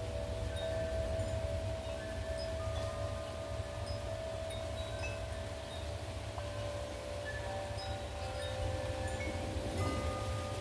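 Wind chimes ringing in gusty wind: several long-held tones overlap, with new notes struck every second or two, over a steady low rumble.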